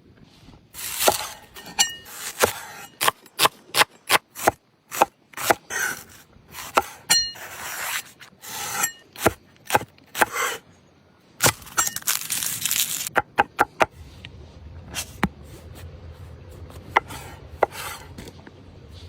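Cooking work sounds: a quick, irregular run of sharp knocks and scrapes, some with a short metallic ring, like utensils and a knife at work. It stops about thirteen seconds in, leaving a faint low hum.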